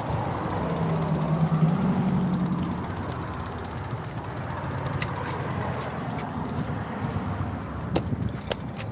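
Motorbike running along, with steady engine and road noise. A low engine tone is held for a couple of seconds near the start, and a few sharp clicks come near the end.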